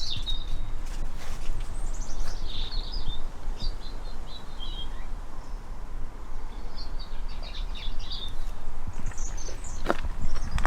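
A songbird singing several short, high twittering phrases with gaps between them, over a steady low rumble.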